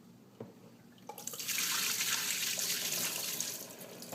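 Dirty black water being poured out of a Hoover SteamVac's recovery tank into a sink: a splashing pour starts about a second in and tapers off near the end, after a couple of small clicks from handling the tank.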